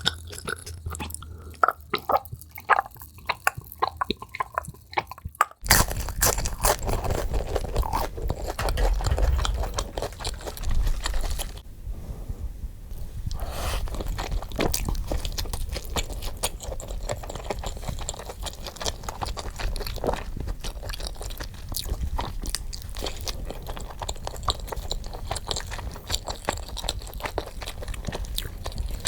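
Close-miked eating, sped up: crunching bites and chewing of food in quick succession. About five seconds in, the sound cuts to a louder, fuller stretch of chewing.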